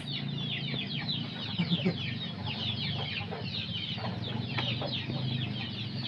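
Many small birds peeping together: a steady stream of short, high calls, each falling in pitch, over a low steady hum.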